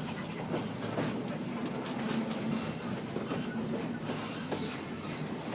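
Walt Disney World Railroad steam train heard from a passenger car: a steady low hum with scattered irregular clicks and knocks.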